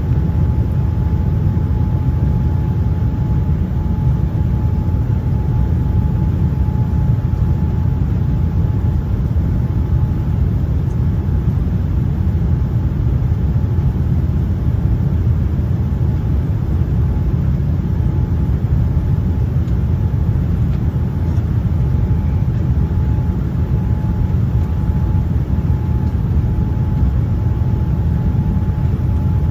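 Steady airliner cabin noise from the engines and airflow in flight: a constant low rumble with a faint steady whine above it.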